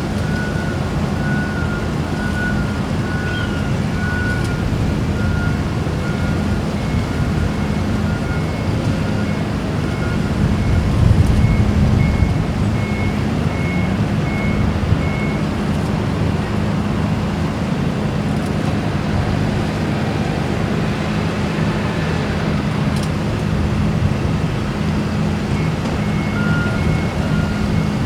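A steady low engine drone, with a vehicle's reversing alarm beeping about once a second. The beeper's pitch steps up partway through and drops back near the end.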